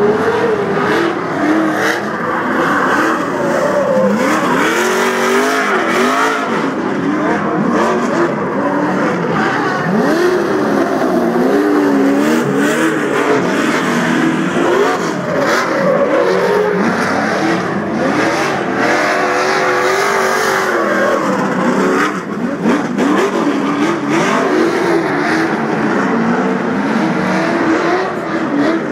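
Several truck engines revving hard and loud, their pitch climbing and dropping over and over as the trucks run and jump.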